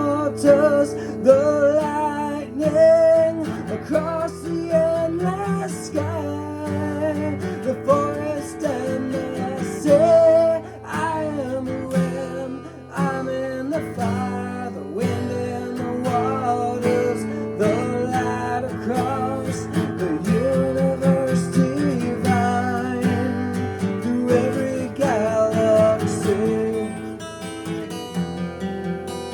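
Acoustic guitar strummed in an instrumental passage of a song, with a melodic line sliding over the chords.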